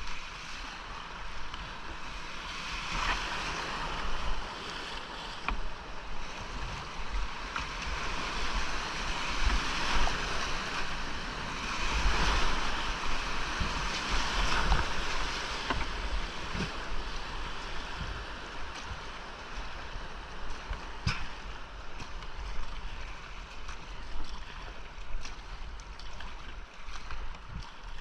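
Rushing creek whitewater heard from a kayak on a GoPro, with low wind-like rumble on the microphone. The rush swells for a few seconds around the middle, and a few sharp knocks cut through it.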